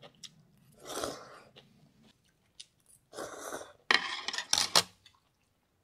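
A person slurping and chewing ramen noodles in a greedy, noisy way. There is a slurp about a second in, then a run of louder slurps from about three seconds to nearly five.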